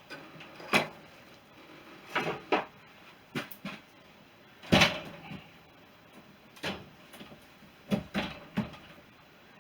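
Scattered knocks and clunks as a BSA B31 engine is manoeuvred and lifted out of the motorcycle frame, metal parts bumping against one another. The loudest knock comes a little under five seconds in.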